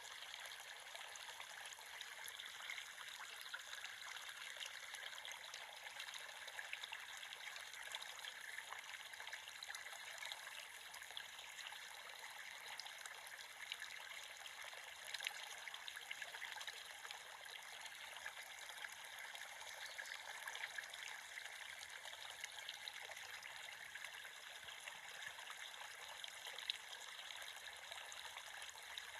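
Creek water trickling and babbling over stones, a steady light splashing with many small droplet ticks and no deep rushing.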